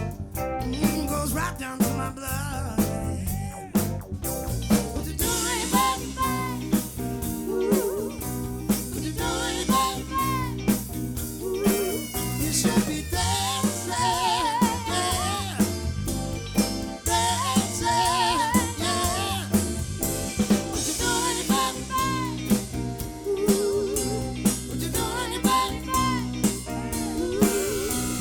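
Live soul-funk band playing a song with a steady drum-kit beat, snare and bass under a wavering lead voice.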